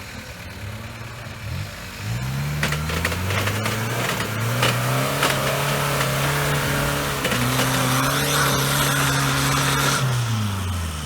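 Off-road 4x4's engine revving hard under load as it drives through a deep rut. The pitch climbs about two seconds in, holds high with a brief dip partway through, and falls away near the end. A few sharp cracks come around three seconds in.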